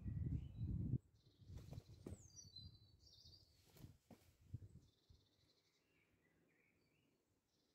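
Faint bird chirps and short whistles, some of them sliding down in pitch, over a quiet background. A low rumble in the first second and a few light clicks come from the camera being handled.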